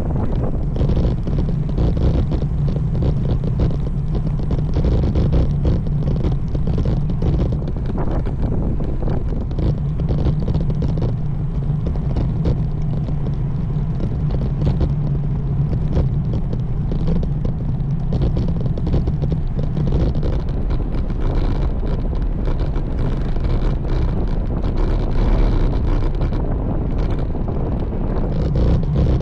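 Wind buffeting the microphone of a camera riding on a moving road bike, a steady, heavy low rush with constant flutter.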